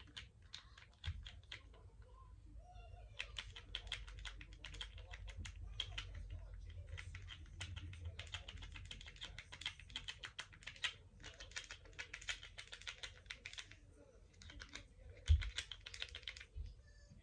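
Rapid, light tapping and clicking in long runs with short pauses. There is one louder knock about fifteen seconds in.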